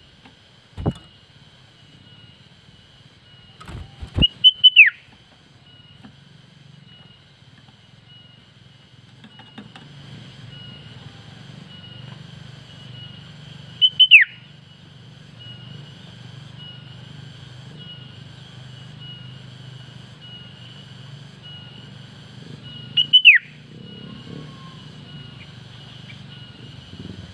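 Sooty-headed bulbul calling three times, about ten seconds apart: each call is a quick run of short whistled notes ending in a sharply falling note. A faint, steady pulsing chirr and a low rumble sit underneath.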